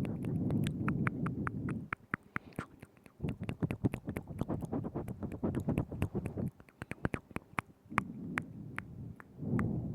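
Close-miked ASMR mouth sounds: rapid, irregular wet clicks and smacks of tongue and lips, over stretches of low rumbling.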